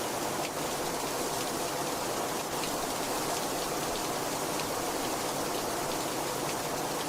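Very heavy rain falling steadily, with faint scattered drop ticks through the constant downpour.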